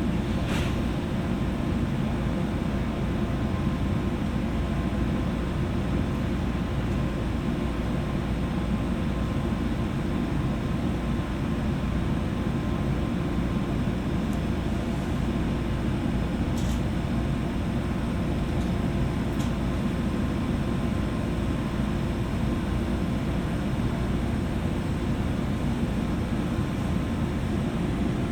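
Steady low hum and noise inside a JR West 201 series electric train car, unchanging, as it stands at a station waiting for another train to pass. There are a couple of faint short ticks partway through.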